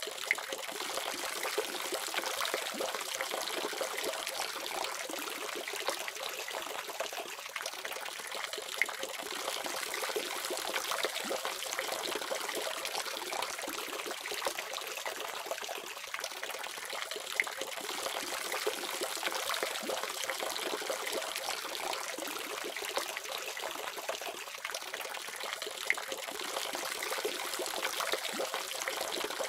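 Water running steadily from a faucet, splashing and trickling, with a few faint drips or plinks standing out now and then.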